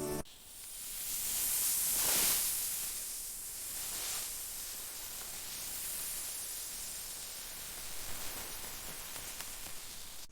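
A hissing, whooshing noise that swells to its loudest about two seconds in, swells again more faintly around four seconds, then carries on as a steadier hiss.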